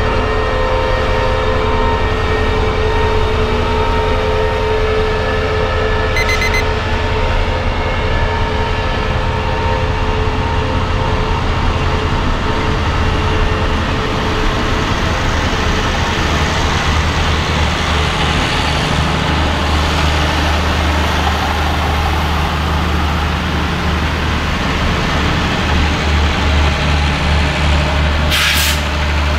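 CRRC CDA5B1 (QSY) diesel-electric locomotive passing slowly with a steady low engine drone and a thin whine. Its passenger coaches then roll past, and a growing rumble of wheels on the rails takes over. A brief sharp hiss comes near the end.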